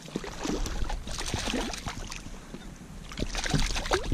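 Irregular splashing and handling noise as a small hooked trout is brought alongside the kayak, over wind rumbling on the microphone.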